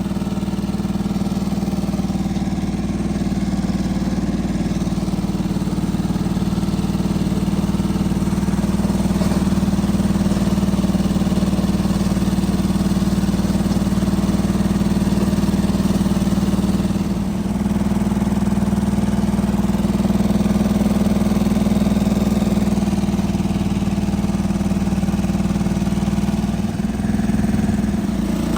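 John Deere 425 garden tractor's liquid-cooled 20 hp engine running steadily at a constant speed, with two brief dips in loudness partway through.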